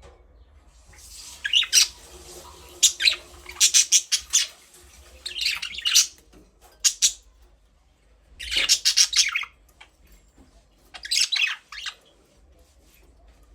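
Budgerigars giving harsh squawks and chirps in short, scattered bursts, several birds calling over one another with brief lulls in between.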